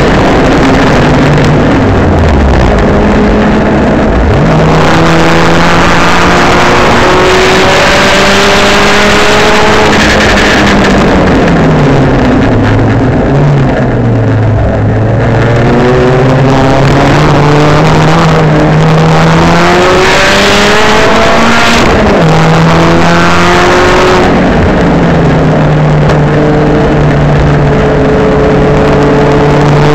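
Tuned Saab 9-3 Sport race car's turbocharged B207 four-cylinder engine driven hard on track: the pitch climbs under full throttle and drops at each upshift, falls away as the car slows about halfway through, then climbs again as it accelerates out.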